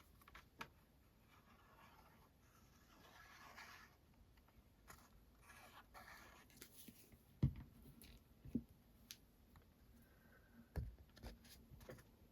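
Faint handling of paper and card: soft rustling and sliding, with a few light taps as a layer is pressed down.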